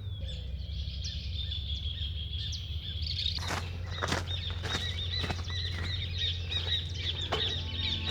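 Small birds chirping steadily over a low outdoor rumble, with a run of four sharp clicks or knocks about half a second apart midway through and one more near the end.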